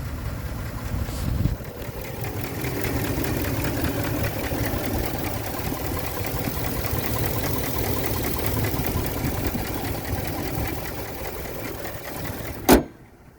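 2019 Ford F-350 pickup truck engine idling steadily. Near the end there is one sharp knock, after which the engine sound falls away to a much quieter background.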